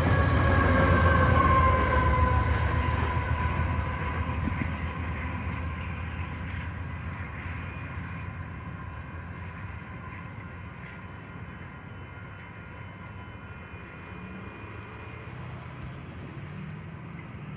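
Canadian Pacific freight train rolling past on the rails with a low rumble, a tone falling in pitch in the first two seconds, then fading steadily as the train moves away.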